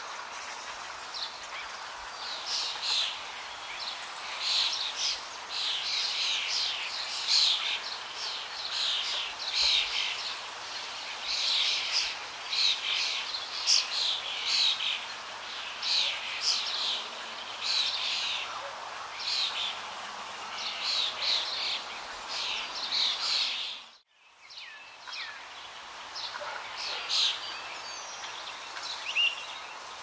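Many songbirds chirping and calling in quick, overlapping phrases over a steady background hiss. About four-fifths of the way through, the sound cuts out for a moment and comes back fainter.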